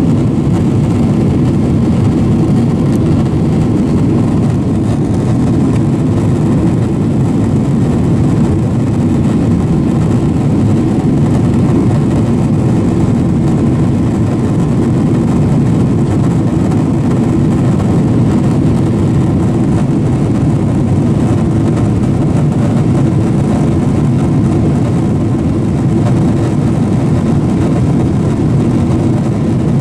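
Steady low roar inside the passenger cabin of a Boeing 767-400 in flight: jet engine and airflow noise.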